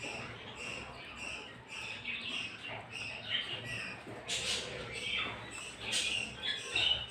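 Several caged pet birds chattering with many quick, overlapping high chirps and squawks. Two louder, sharp calls stand out, about four and a half and six seconds in.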